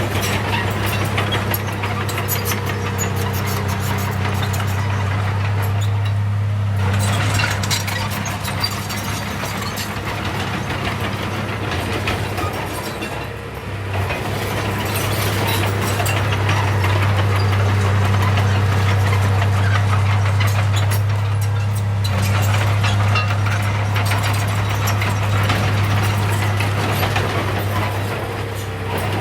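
A heavy diesel engine of an earthmoving machine running steadily, with rattling and clattering over it. The engine note dips briefly about halfway through, then comes back up.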